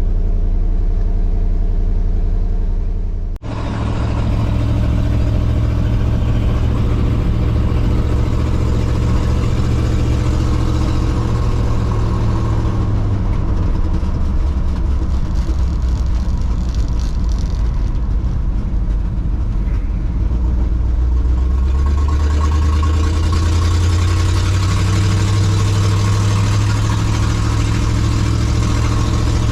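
1954 Chevrolet pickup truck on the move: a steady engine hum with road noise. The sound breaks off sharply for a moment about three seconds in, and the engine's pitch rises around two-thirds of the way through as the truck speeds up.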